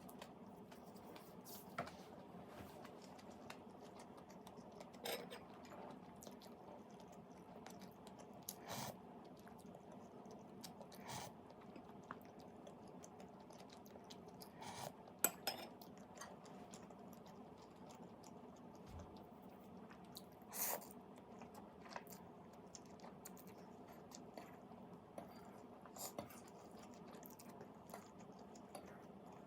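Someone eating: faint intermittent chewing with scattered clicks of cutlery and dishes, over a steady low background hum.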